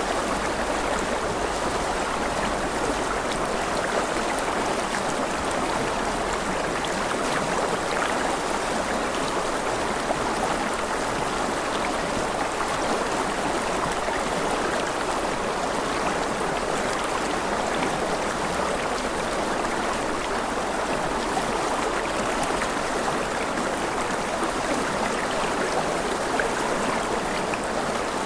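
Running water of a stream, flowing in a steady, unbroken rush.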